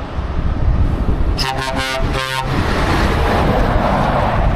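A Scania truck horn sounds for about a second, a second and a half in, over the steady low rumble of trucks driving off.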